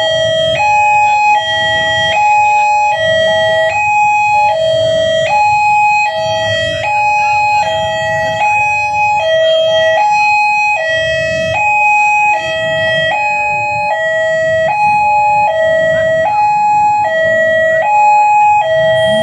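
Railway level-crossing alarm sounding over and over, a high and a low electronic tone taking turns about every 0.7 seconds, which warns that a train is coming and the barriers are down. Road traffic rumbles underneath.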